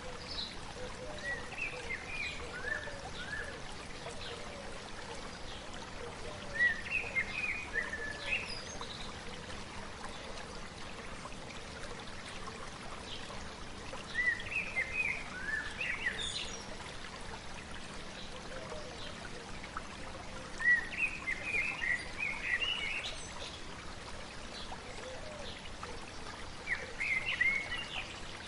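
A stream flowing steadily, with a songbird singing short chirping phrases that come back about every seven seconds, five times.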